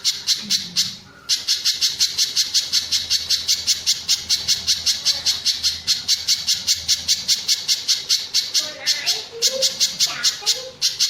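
Pijantung gunung spiderhunter calling: a long run of sharp, high notes repeated evenly at about three or four a second. The run breaks off briefly about a second in and again near the end.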